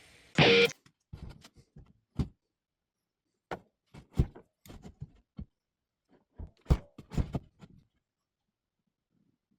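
A short loud burst about half a second in, then a series of irregular knocks and thuds from objects being handled and set down, ending about two seconds before the end.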